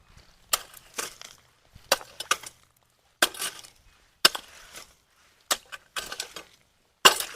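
A rake striking and scraping into packed leaves, sticks and debris, a sharp hit followed by a crackle about once a second, the loudest near the end. The debris is hard-packed, almost like concrete.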